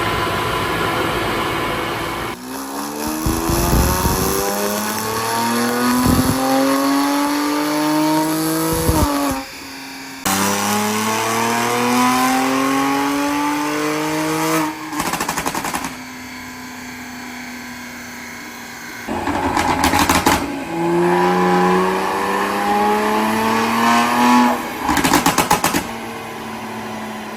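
Genesis G70's ECU-tuned 3.3-litre twin-turbo V6, at 1.5 bar boost, revving up in three long pulls that each climb steadily in pitch. Between and after the pulls the exhaust fires loud pops and bangs, including rapid rattling volleys of crackles, from a tune set up to make them.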